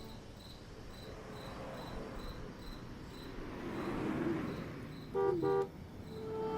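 Crickets chirping in a steady, evenly pulsed rhythm. A car passes, and about five seconds in a car horn gives two short toots.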